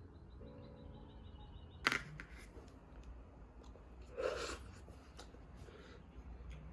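A sharp click about two seconds in, then a short soft rustle a couple of seconds later, over faint room tone.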